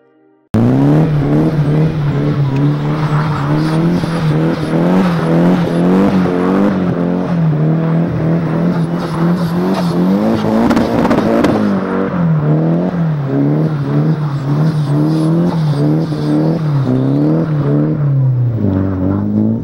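Nissan 240SX's SR20DET engine revving up and down over and over while the car drifts in circles on snow. It starts suddenly about half a second in and settles lower near the end.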